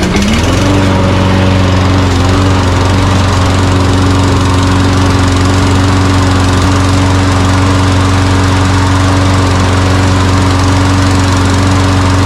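Walk-behind lawn mower's small gasoline engine catching right at the start, revving up within half a second and then running steadily at constant speed. It runs once the disconnected blade-engagement cable is held engaged with a zip tie, showing that the loose cable was what kept it from running.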